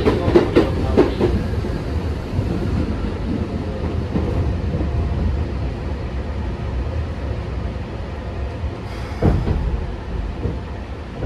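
Interior running noise of a Keikyu 1500 series train slowing into its terminal station. Wheels knock over rail joints and points in the first second, then a steady low rumble fades as the train brakes, with one sharp knock about nine seconds in.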